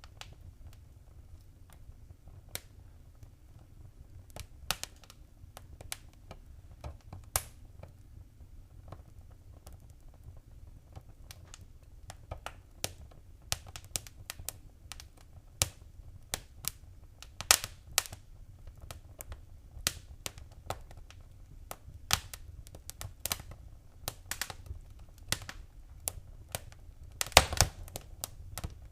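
Wood fire crackling in a fireplace: irregular sharp pops and snaps, sparse at first and coming thicker after the first ten seconds or so, over a low steady rumble.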